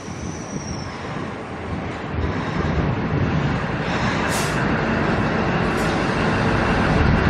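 Two-car diesel multiple unit train pulling in, its running noise growing steadily louder as it approaches. A brief thin, high tone sounds in the first second.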